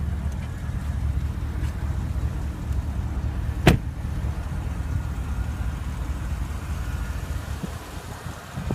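Porsche Panamera Turbo's 4.8-litre twin-turbo V8 idling steadily with a low rumble, with a single sharp clunk a little over three and a half seconds in.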